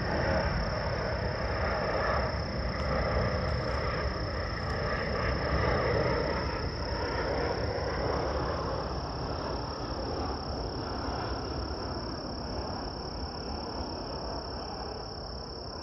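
Distant jet airliner on its landing approach: a broad rumble that swells a few seconds in and slowly fades. Over it runs a steady high-pitched insect drone.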